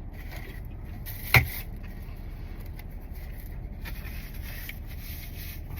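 Steady low vehicle rumble, with faint rustling and one sharp click about a second and a half in.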